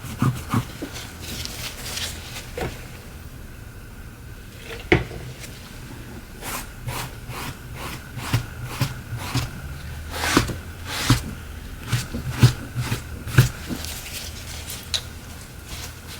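Irregular small clicks, taps and rubbing of tools and phone parts being handled on a workbench, over a steady low hum.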